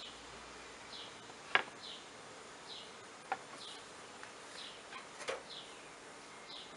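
Honeybees buzzing around an open hive, with a short chirp repeating about once a second and a few sharp knocks, the loudest about a second and a half in.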